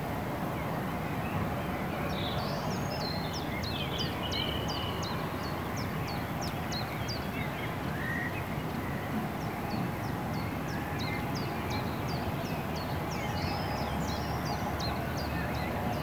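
Birdsong: a songbird repeating a short, high, downward-sweeping note about three times a second in two long runs, with a few other birds calling faintly. Underneath is a steady rushing noise.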